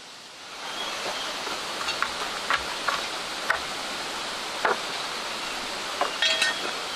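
Steady rush of a flowing mountain stream, setting in about half a second in, with scattered small splashes and clicks and a brief higher-pitched chirp near the end.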